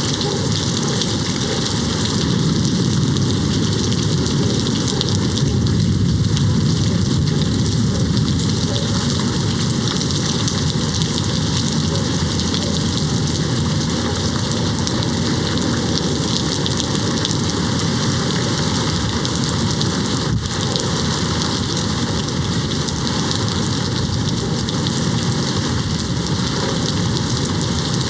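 Steady heavy rain hitting a window, an even hiss throughout. A low rumble of distant thunder swells a few seconds in.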